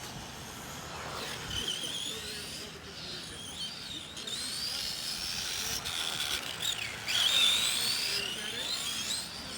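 Electric motors of Tamiya Euro RC racing trucks whining, their pitch rising and falling as the trucks speed up and slow down around the track, with several motors overlapping and the loudest pass about seven seconds in.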